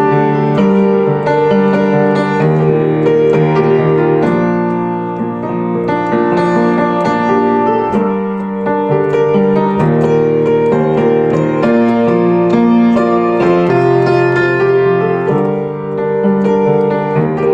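Instrumental keyboard music: slow, held chords changing about once a second under a melody line, with no singing.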